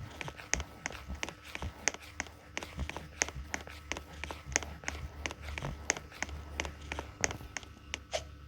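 An irregular run of quick light taps or clicks, several a second.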